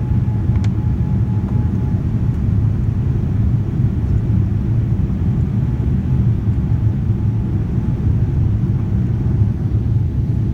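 Steady low rumble of engine and airflow noise inside the cabin of a Boeing 787-9 Dreamliner with Rolls-Royce Trent 1000 engines. A faint steady hum fades out about two seconds in.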